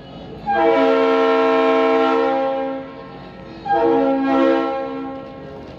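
Locomotive horn sounding a chord of several notes in two blasts, a long one and then a shorter one.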